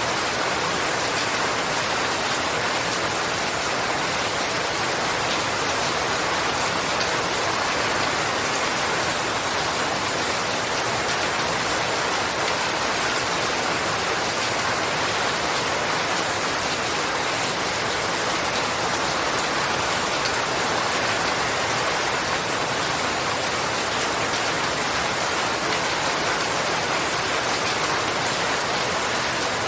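Steady rain falling and pattering on surfaces, an even hiss of drops with no breaks or changes.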